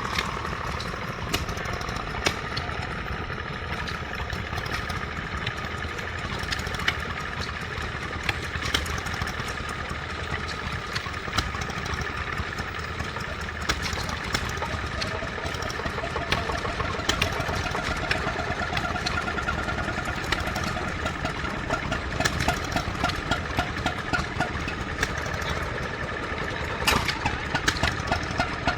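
Vintage stationary engine running steadily, with sharp ticks and knocks over the running noise, a couple of seconds apart at first and much closer together from about two thirds of the way in.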